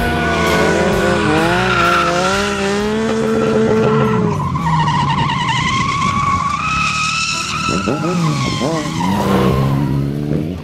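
An engine revving up and down while tyres squeal, a vehicle drifting; the squeal rises and wavers through the second half.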